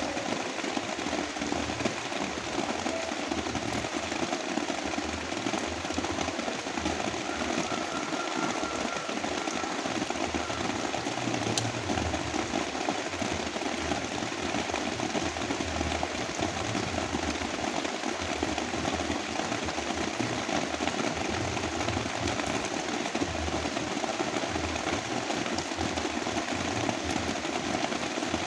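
Heavy rain falling steadily as a dense, even hiss, mixed with brown noise that adds a deep rumble underneath.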